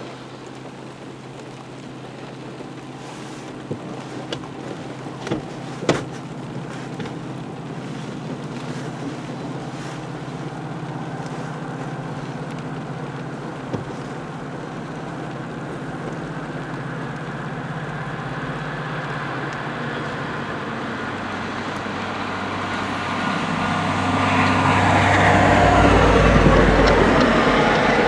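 MBTA commuter train approaching and passing: a rumble that builds steadily and is loudest about 25 seconds in, with a deep low drone under it as the train goes by. A few sharp knocks come about 4 to 6 seconds in.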